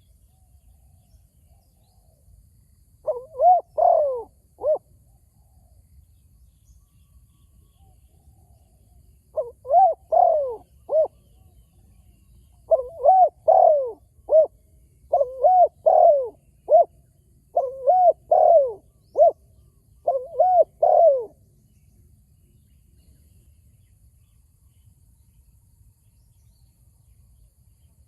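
Spotted dove cooing: six short phrases of clear coos, each note rising and falling, the first three a few seconds apart and the later ones following every second or two.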